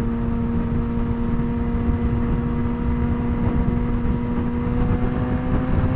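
2007 Suzuki GSX-R600's straight-piped inline-four engine holding steady revs at highway cruising speed, a steady drone that creeps slightly higher in pitch near the end, over wind rush on the microphone.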